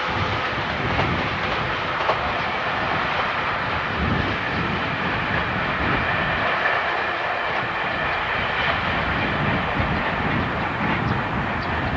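A train running past on the Tohoku Main Line, a steady rumble with repeated knocks from the wheels over the rail joints.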